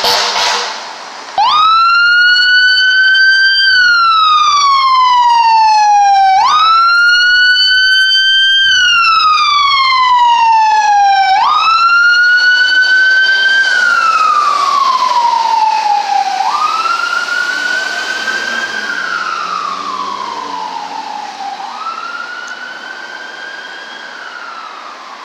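Fire engine siren in a repeating wail, each cycle a quick rise and a slower fall about every five seconds, growing fainter over the second half as the engine moves away. A brief loud horn blast ends just as the siren starts.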